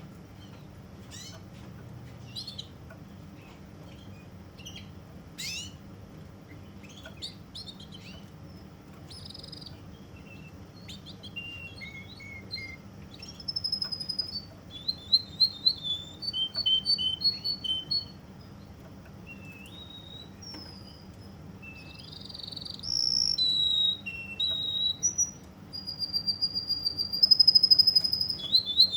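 Domestic canary of Russian song type singing: scattered soft chirps and clicks at first, then from about halfway song phrases of rapid repeated trills and held high whistled notes, loudest near the end. A faint steady low hum lies underneath.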